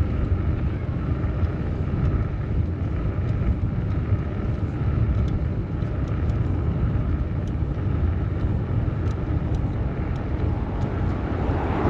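Steady low rumble of city road traffic and wind heard from a moving bicycle, with a vehicle passing close and growing louder near the end.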